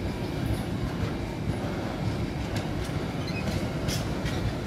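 Container wagons of a freight train rolling past: a steady low rumble with repeated clacks as the wheels cross rail joints.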